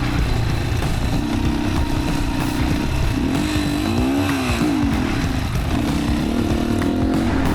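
Yamaha WR155R's single-cylinder four-stroke engine running on a rough dirt trail, its revs rising and falling with the throttle about four seconds in, over a steady low rumble and wind noise.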